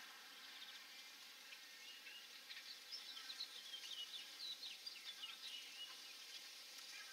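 Bird chirping: a quick run of short, high chirps from about two seconds in until near the end, over a faint steady hiss.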